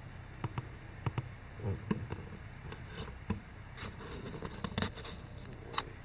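Faint handling noises from a stack of duct-taped hockey pucks being turned over and pulled apart: scattered small clicks and knocks with brief rustling and scraping.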